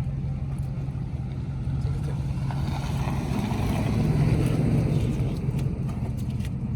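A vehicle engine running steadily with a low hum that swells slightly about four seconds in.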